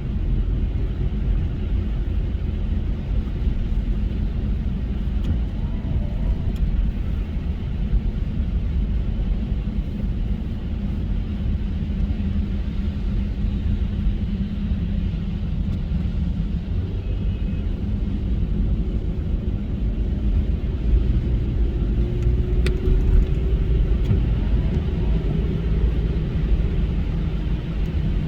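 A car driving along, a steady low rumble of road and engine noise, with a single sharp click about three quarters of the way through.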